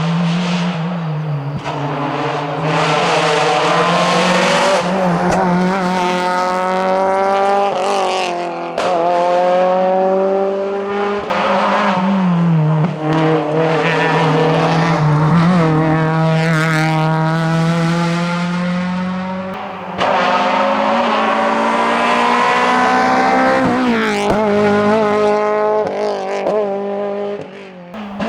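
Renault Clio Sport hillclimb car running flat out, its engine revving high and dropping back again and again as it changes gear and brakes for corners. The sound is heard over several short passes, each cut off abruptly.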